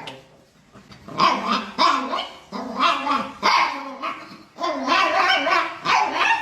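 A dog 'talking back': a run of about five drawn-out grumbling, howl-like vocalizations that rise and fall in pitch, the dog complaining at its owner.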